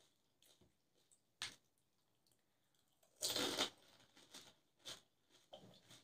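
Close-miked chewing of pani puri (golgappa): crisp fried shells crunching and squishing in the mouth. A sharp crack comes about a second and a half in, the loudest crunch a little past halfway, then a few softer chewing clicks.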